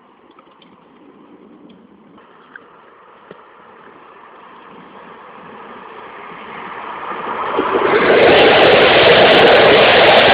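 SNCF train approaching, growing steadily louder over about eight seconds, then passing close by with a loud, steady rush.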